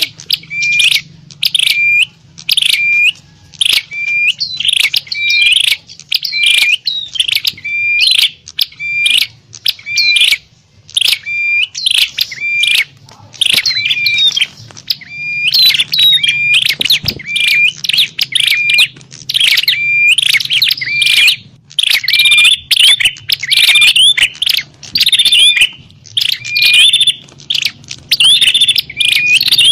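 Prenjak songbirds calling in a fast, agitated series of loud, sharp chirps, several a second with brief pauses: the noisy calling of prenjak fighting, used as a lure call for wild prenjak.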